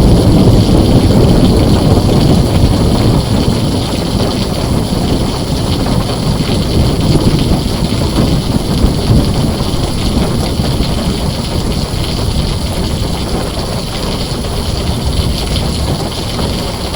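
Heavy rain on a tin roof with a long, low roll of thunder. The thunder swells just before the start, is loudest at first, then slowly fades while the rain hiss goes on steadily.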